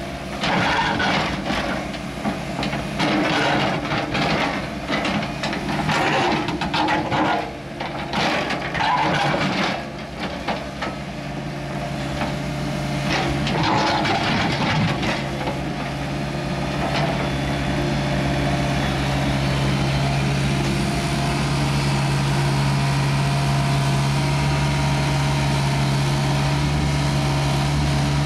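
Heavy digging machine at work: an engine runs throughout under irregular clanking and scraping for roughly the first half. The rest is a steady engine hum.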